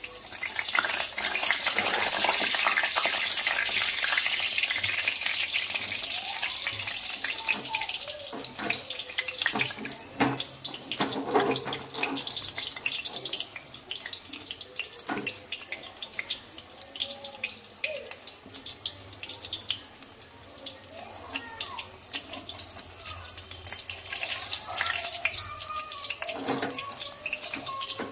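Chicken pieces frying in very hot oil in a kadai. A loud sizzle fills the first several seconds, settles to a lighter crackle with scattered spits and small clicks, and swells again near the end.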